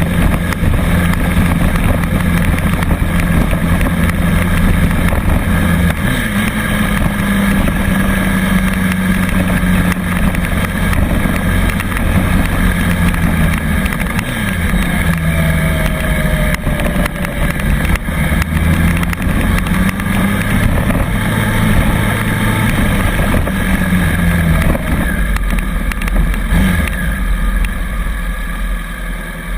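Continuous rumble of travel while riding a Bird rental electric scooter: road and wind noise with a low hum that shifts in pitch a few times.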